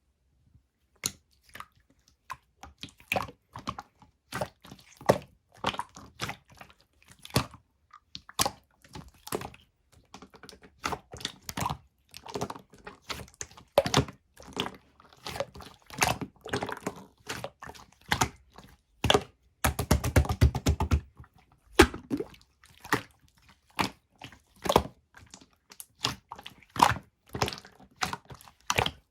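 Slime being squeezed and pressed by hand, giving a steady string of sharp clicks and pops, with a short stretch of rapid crackling pops about two-thirds of the way through.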